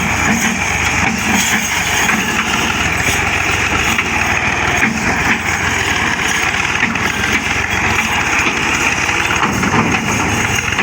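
Tractor diesel engine running steadily, with an even, fast firing beat and no change in speed.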